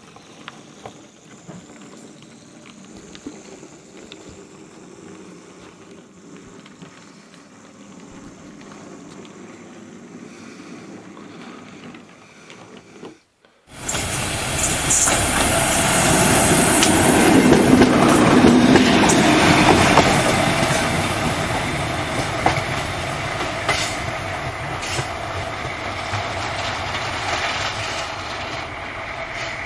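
Train running on rails with a clickety-clack of wheels over the track. About fourteen seconds in, the sound cuts abruptly to a much louder, fuller train recording that swells and then slowly fades.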